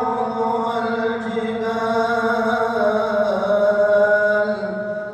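A man's voice reciting the Quran in melodic chanted style, drawing out long held notes that glide slowly in pitch.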